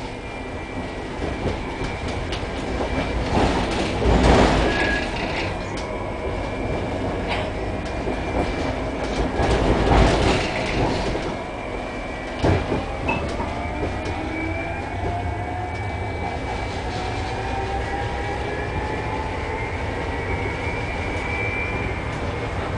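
Tram running, heard on board: steady rolling noise with two louder rumbles about four and ten seconds in and a sharp clack a little after halfway. In the second half a thin whine rises slowly in pitch.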